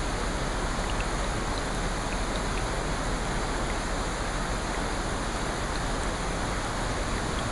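Steady rain: an even rushing hiss with scattered small drop ticks high up.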